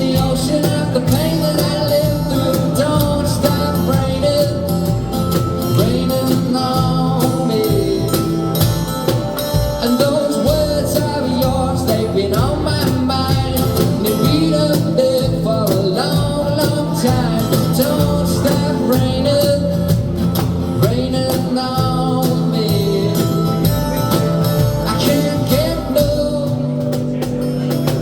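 A live band playing a song with singing, guitar and drums, recorded loud from the audience.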